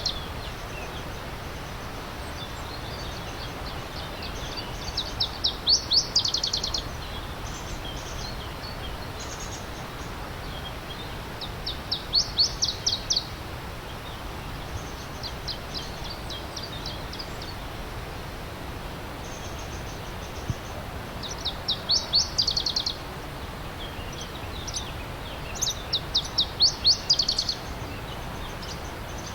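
A songbird sings a short phrase of quick, high notes, repeated every few seconds, with fainter phrases in between. Under it runs the steady rush of a stream.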